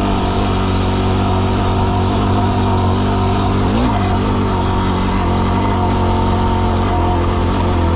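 Yamaha WR250R's single-cylinder four-stroke engine running steadily under way, with a brief dip and rise in revs about four seconds in.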